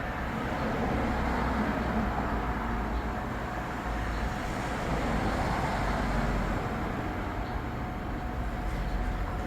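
Steady machine hum with a faint steady whine, as refrigerant oil is injected into a car's air-conditioning system during a recharge.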